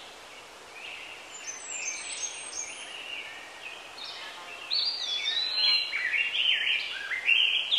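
Songbirds singing: short chirps and whistled phrases over a faint steady hiss. The song grows busier and louder from about halfway through.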